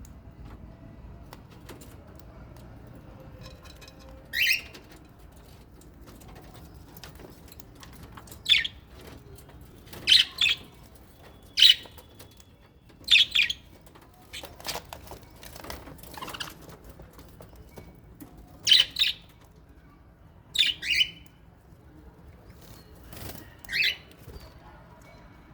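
Small aviary parrots (lovebirds and budgies) giving about a dozen short, sharp, shrill calls, some in quick pairs, scattered with pauses between them over a faint background.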